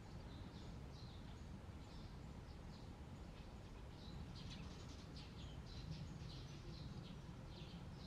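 Faint, short, high-pitched bird chirps, many in quick succession and busier from about halfway through, over a steady low outdoor rumble.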